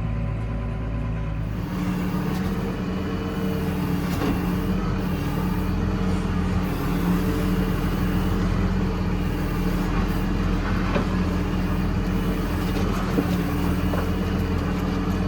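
Tractor's diesel engine running steadily. The sound changes abruptly about a second and a half in to a fuller, busier drone.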